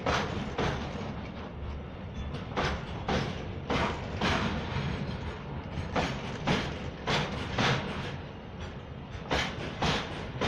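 Loaded double-stack container wagons of a freight train rolling past, their wheels clacking over rail joints in pairs of sharp clicks, a pair every second or two, over a steady low rumble.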